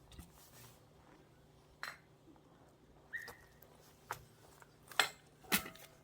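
Axe striking firewood during splitting: a handful of short sharp knocks spread out, the loudest about five seconds in.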